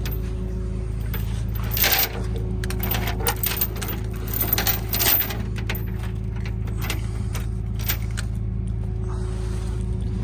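An engine idling steadily, with a run of metallic clanks and rattles about two to five seconds in as a hook and tie-down are fitted.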